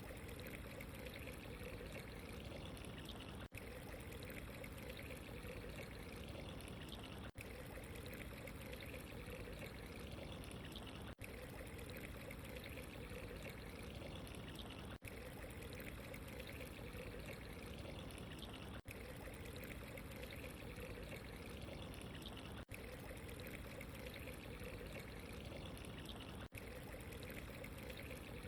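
Steady running water, a trickling, pouring flow, with a very short dropout about every four seconds where the recording loops.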